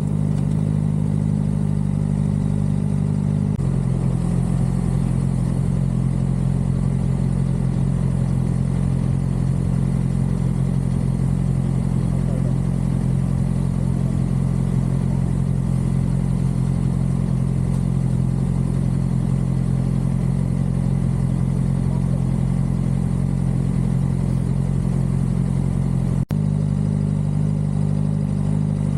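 Suzuki GSX-R600's inline-four engine running at a steady speed while riding. The engine note shifts once, about three and a half seconds in, and there is a momentary dropout near the end.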